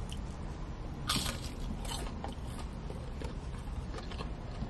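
Biting into and chewing a Chicken McNugget, with short crunchy bursts about one and two seconds in.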